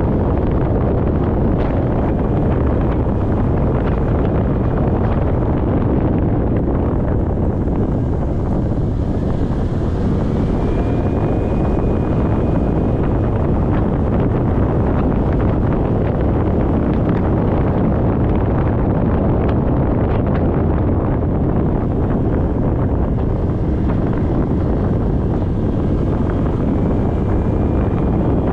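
Heavy, steady wind noise buffeting a GoPro's microphone on a moving motorcycle, with the motorcycle running underneath.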